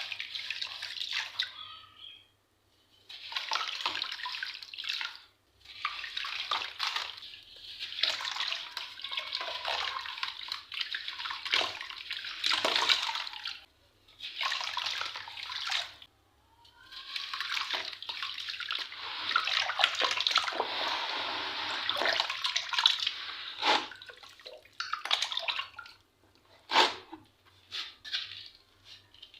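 Sand balls and shapes made with water crumbling and dissolving in water: a crackling, fizzing hiss in stretches of a few seconds each, separated by short pauses, with a couple of sharper cracks.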